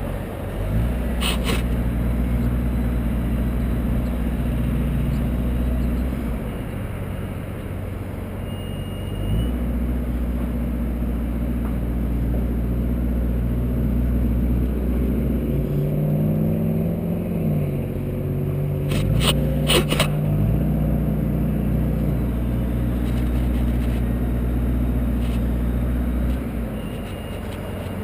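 Engine of the machine hoisting a man up a cell tower, running under load and changing speed in steps: it eases off about 6 s in, picks up again near 9.5 s, its pitch rises and falls around 16 to 18 s, and it drops back near the end. A few sharp clicks come about a second in and around 19 to 20 s.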